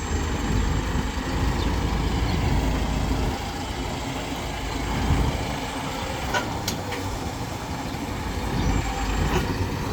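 Truck engine running with a steady low rumble, and two sharp clicks about six and a half seconds in.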